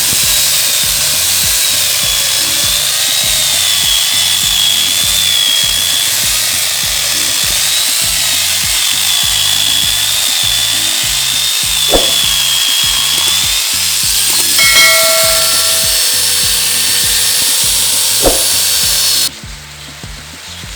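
Angle grinder fitted with a chainsaw-head attachment running and cutting wood, its motor whine wavering in pitch as the load changes. The sound cuts off abruptly near the end.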